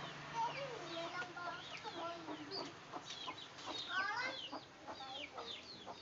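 Several birds chirping and calling at once: many quick falling chirps overlapping one another, with some lower, shorter notes mixed in.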